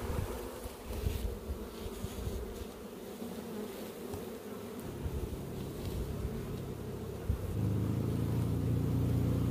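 A swarm of Italian honey bees buzzing steadily. About three-quarters of the way through, a louder, steady low hum comes in.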